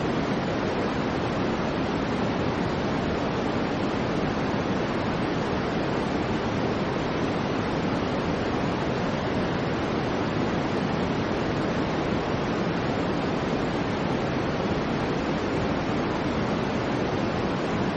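Steady soft white noise of a baby sleep-aid track: an even, unbroken hiss that does not rise, fall or pulse, heavier and softer in the low and middle range than a bright hiss.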